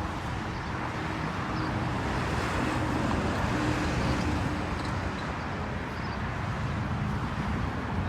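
Street traffic noise with a car engine running, swelling a little around the middle and easing off again.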